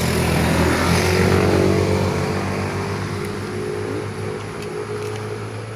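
A motor vehicle's engine passing by, getting louder for about a second and then slowly fading.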